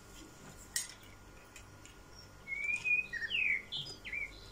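A bird chirps a few times, short rising and falling calls that come in a quick run over the second half. A single light click comes about a second in.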